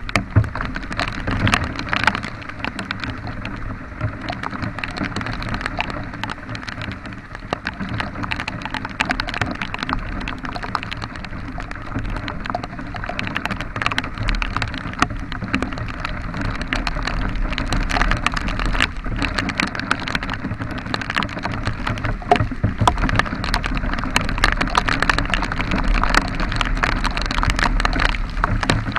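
Heavy rain pattering on the microphone in a dense spray of small drops, over a steady low rumble.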